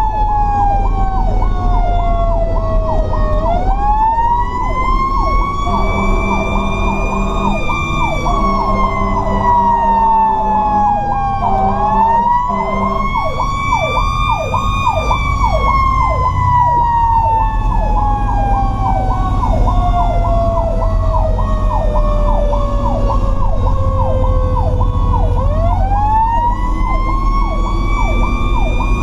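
A fire truck's mechanical Q siren winds up and slowly coasts down three times. Under it, an electronic siren cycles fast and the truck's engine rumbles. Several air horn blasts sound about six to thirteen seconds in.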